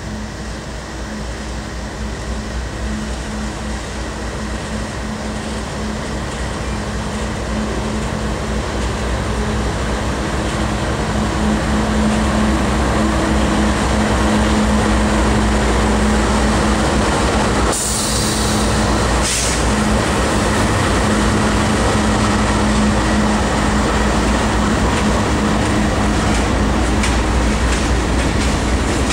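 CSX diesel freight locomotives approaching and passing, their engines' steady hum growing louder, then empty coal cars rolling by with their wheels clicking over the rail joints. A brief sharp noise cuts in about eighteen seconds in.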